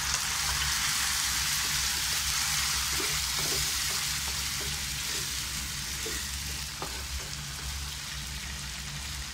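Tomato purée sizzling as it hits hot oil with garlic and green chilli in a nonstick frying pan, stirred with a wooden spatula. The sizzle is steady and eases slightly toward the end.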